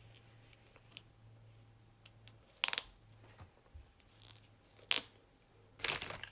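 Small plastic cosmetic items and packaging being handled: a few faint ticks and three loud, sharp clicks or scrapes, the last one a little longer, over a low steady hum.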